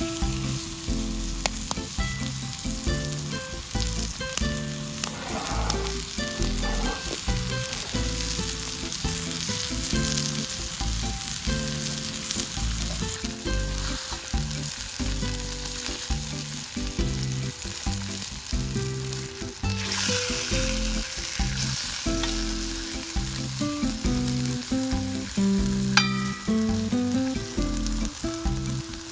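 Chicken sizzling in a Turk frying pan over a wood fire, as a steady hiss, with background music and a single sharp click near the end.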